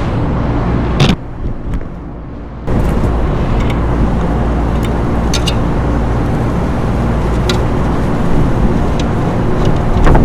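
Steady low machinery hum with a constant pitch, from surrounding rooftop equipment or traffic. Scattered light clicks and taps of metal parts are heard over it. The hum drops for about a second and a half early on, then comes back abruptly.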